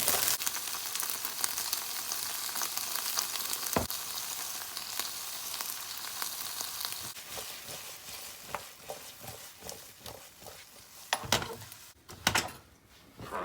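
Octopus, potato and asparagus stir-frying in a pan: a sizzle with a utensil stirring and scraping. The sizzle dies down over the second half, leaving separate knocks of the utensil against the pan, the loudest near the end.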